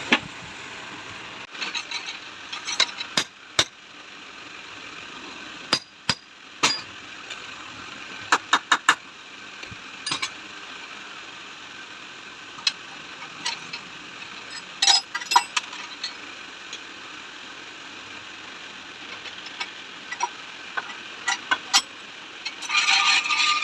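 Scattered metal clinks and taps of hand tools on a motorcycle rear shock absorber being taken apart, some in quick clusters, over a steady hiss.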